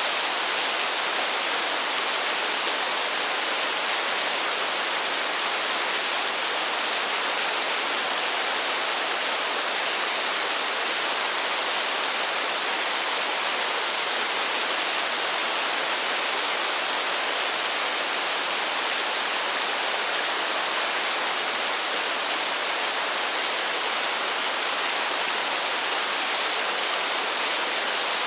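Steady, dense hiss of falling water, even throughout, with no separate drops or splashes standing out.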